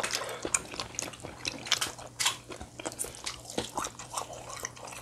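A person chewing food with the mouth close to the microphone: wet smacking with irregular small clicks and crunches.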